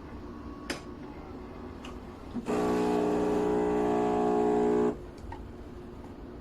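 Philips fully automatic espresso machine's pump running with a steady buzzing hum for about two and a half seconds. It starts abruptly and cuts off sharply, after a few faint clicks.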